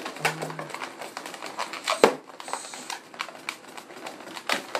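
Latex 260 twisting balloon squeaking and rubbing as it is twisted into bubbles, with one sharp snap about two seconds in.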